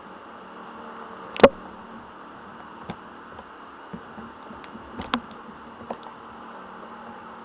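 Irregular sharp electrostatic crackles and pops over a steady hiss, the loudest a single crack about a second and a half in, with a quick pair of pops about five seconds in. Static crackling in a thunderstorm, the kind of electrical noise heard before a thunderclap.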